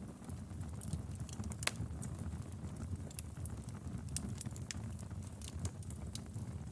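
Wood fire crackling in a fireplace: irregular sharp pops and snaps over a low steady rumble of the flames, with one louder pop a little under two seconds in.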